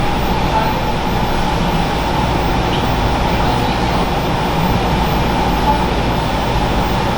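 Steady, loud rumbling background noise, with faint voices underneath.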